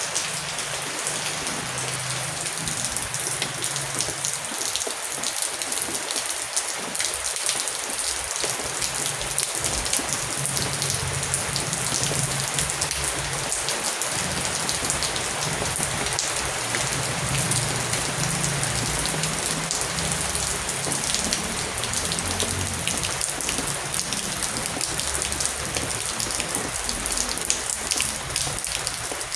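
Heavy rain falling steadily, a dense hiss of many individual drops hitting a surface, with a low rumble underneath that swells and fades.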